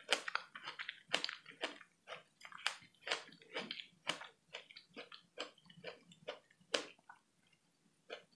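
A person chewing a mouthful of fresh strawberry close to the microphone, about two chews a second, thinning out and stopping near the end.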